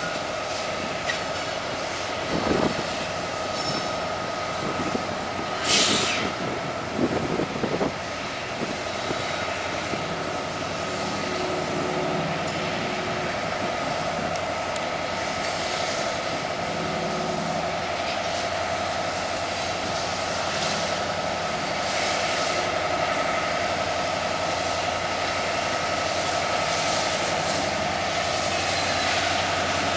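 Union Pacific diesel locomotive hauling a train of covered hoppers slowly past, its engine running steadily. Wheels knock and clunk over rail joints a few times in the first several seconds, with a steady high tone running underneath.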